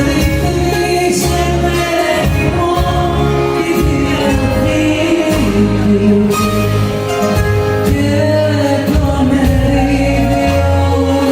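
Live band playing a Greek popular song, a melody carried over a steady run of bass notes.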